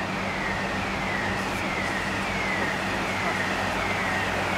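An electronic siren-type warning tone, a high note falling in pitch and repeating about every half second, over a steady low hum and a rushing noise.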